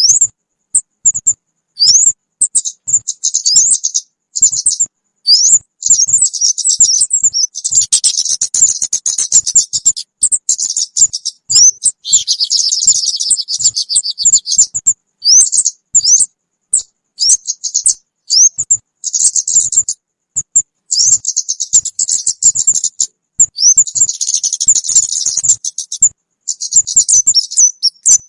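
Recorded lure calls of the kemade bird, possibly chick calls: a loud, fast stream of high chirps and quick rising whistles. Several times it breaks into dense, buzzy chattering lasting two or three seconds. Between phrases the sound cuts off abruptly, as in an edited or looped track.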